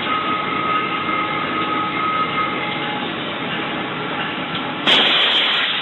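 Cab sound of a moving locomotive: steady running noise from the train on the track, with a few faint held tones early, turning suddenly louder and brighter about five seconds in.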